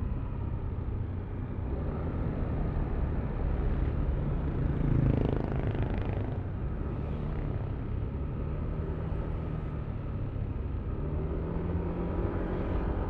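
Yamaha Aerox V3 scooter's 155 cc single-cylinder engine running under way, heard from the rider's seat with a low rumble of road and wind. A louder rush swells briefly about five seconds in, and the engine note climbs a little near the end as it accelerates.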